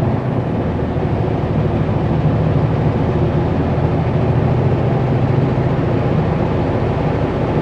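Kenworth W900L semi truck's diesel engine running steadily under load, with an even low drone, as the loaded Super B pulls slowly up a grade.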